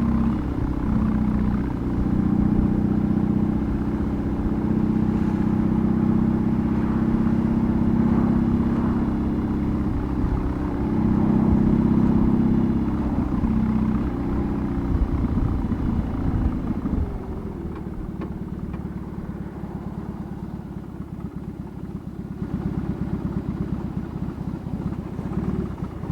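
BMW R18's big boxer twin running through a custom exhaust on the move, a strong steady note for about the first sixteen seconds. It then drops to a quieter, uneven low beat and picks up a little again near the end.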